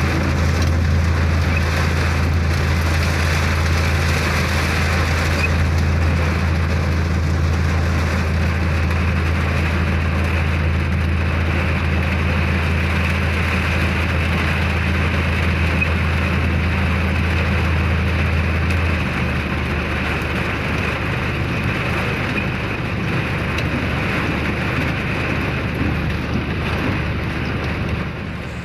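Heavy rain falling steadily, with a vehicle engine running under it as a low drone that eases off about two-thirds of the way through.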